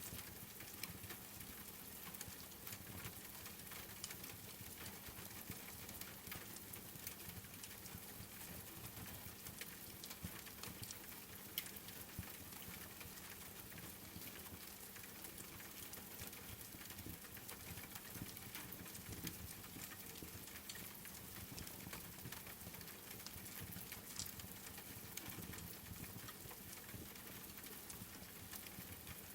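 Steady rain pattering, mixed with the scattered small crackles of a wood fire.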